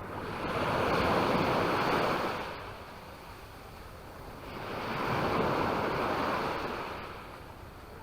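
Small Mediterranean waves breaking and washing up the beach twice, each a smooth surge of surf noise that builds and fades over two or three seconds.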